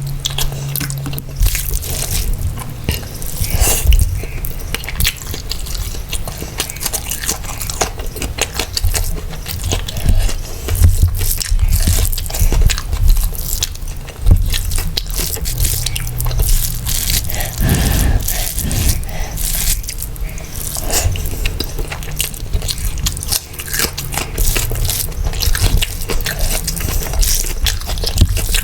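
Close-miked eating of mutton biryani and mutton curry: wet chewing and mouth sounds made of dense, rapid clicks, with low thuds beneath.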